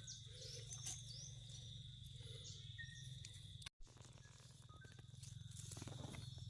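Quiet forest background: a steady high-pitched insect drone over a low hum, with a few faint chirps. The sound cuts out for a moment just under four seconds in.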